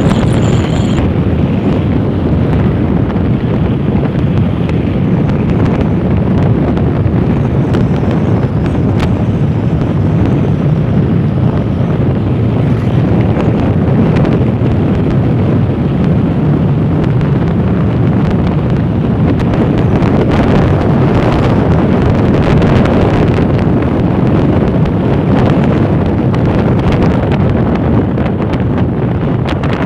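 Wind buffeting the microphone: a loud, steady rumbling noise with no distinct events.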